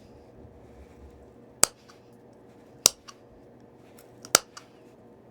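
Three sharp clicks about a second and a half apart, each with a smaller tick after it, as flakes snap off the edge of a stone point being knapped to re-form its broken tip.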